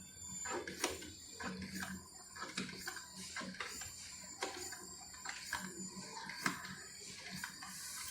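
Morphy Richards Primero drip coffee maker heating up after being switched on: faint, irregular ticks and small pops as the water in its heater nears the boil, with a low hum under them.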